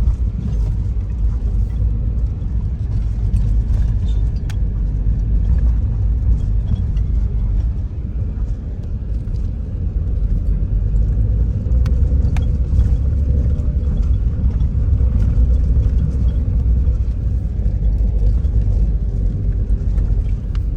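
A car driving, with a steady low road-and-engine rumble and a few faint ticks.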